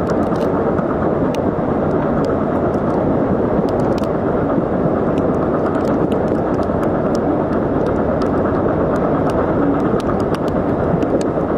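Steady rush of a steam-hauled passenger train running at speed, heard from an open coach window, with wind buffeting the microphone and scattered light clicks.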